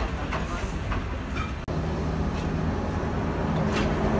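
Diesel passenger train: a few sharp clicks over a noisy rumble as the locomotive pulls into a station platform. After a sudden break about a second and a half in, the steady rumble of a moving carriage follows, with a low hum, heard from its open doorway.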